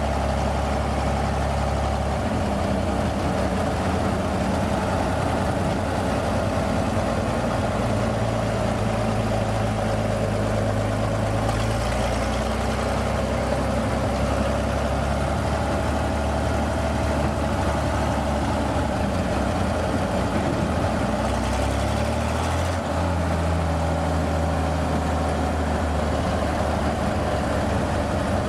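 Old Chevy truck engine running steadily. Its note shifts to a new pitch three times, at about 2, 12 and 22 seconds in.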